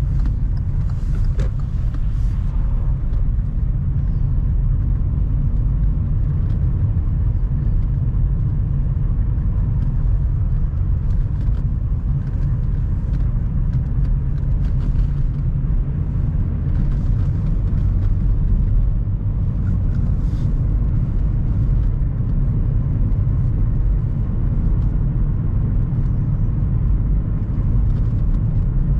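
A car driving: a steady low rumble of engine and road noise, with a few faint clicks and rattles.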